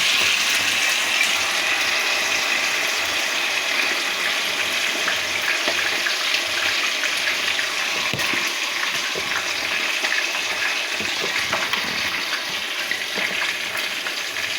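Marinated chicken pieces frying in hot oil: a steady sizzle with scattered small crackles, loudest at first and easing off slightly.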